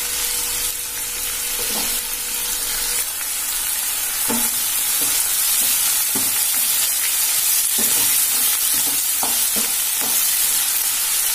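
Sliced onions, tomato, green chillies and curry leaves sizzling steadily in oil in a non-stick pan as they are sautéed and stirred with a wooden spatula.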